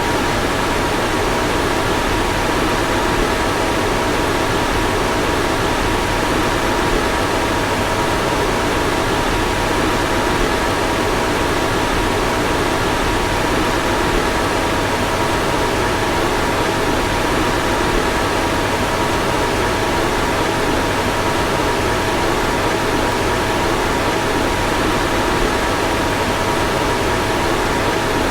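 A car's fan blowing steadily: an even rush of air with two faint, steady whining tones in it.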